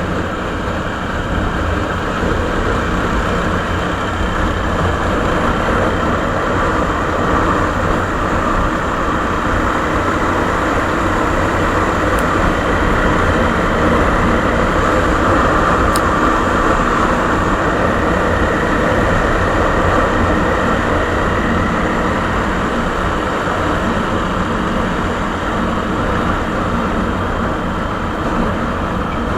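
Suzuki Savage single-cylinder four-stroke motorcycle engine running steadily through its stock exhaust, swelling a little toward the middle and settling back near the end.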